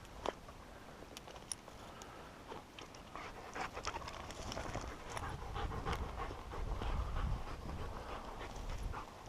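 A wolfdog panting, with scattered light clicks and a low rumble that builds in the second half.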